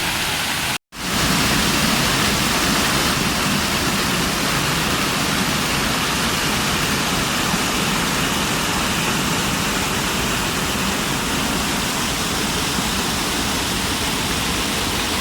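Waterfall, a loud steady rush of falling water. It cuts out completely for a moment about a second in, then carries on slightly louder.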